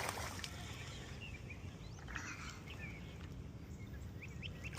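Birds chirping in short calls, a few about two seconds in and a quick run of them near the end, over a steady low rumble.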